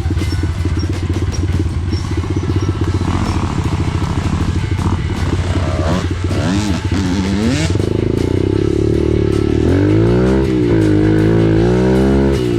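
Dirt bike engine running, then revved up and down several times in the second half, over background music.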